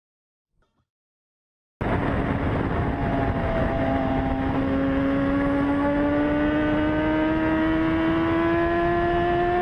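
A vehicle engine running over road noise, cutting in abruptly about two seconds in, its humming note climbing slowly as the vehicle gathers speed.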